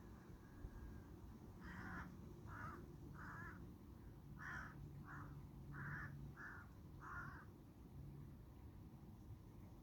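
A crow cawing, about eight harsh caws in two runs of four, starting about two seconds in, over a faint steady background hiss.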